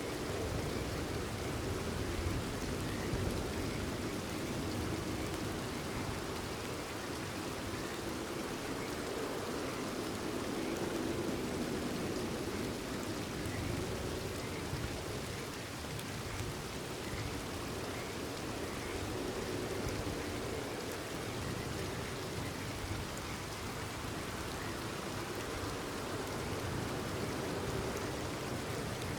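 Steady rain falling, with frogs calling faintly through it.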